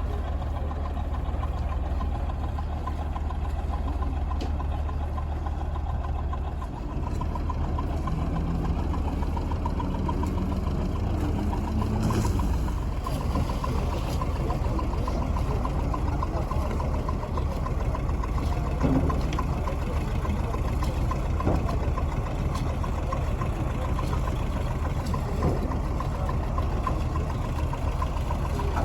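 River cruise ship's diesel engines running, a steady low hum and drone.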